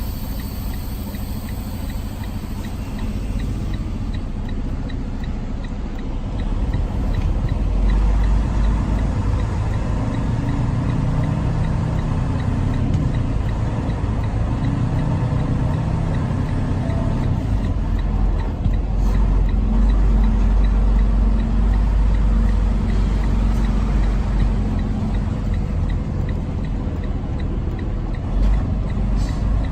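Semi-truck's diesel engine running, heard from inside the cab, with a steady low rumble that gets louder about seven seconds in.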